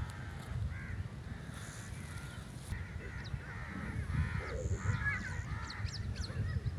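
A series of short, harsh animal calls, repeated every second or so, over a low rumble.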